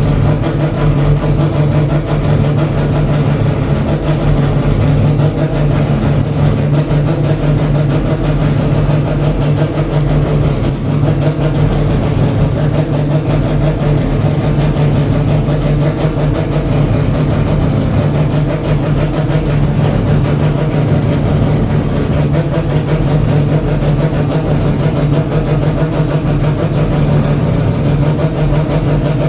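Mazda 787B's four-rotor R26B rotary engine idling steadily, loud and unbroken.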